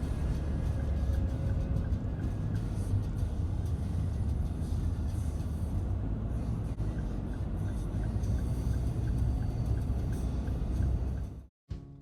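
Steady low rumble of a car driving along the road; it cuts off abruptly near the end.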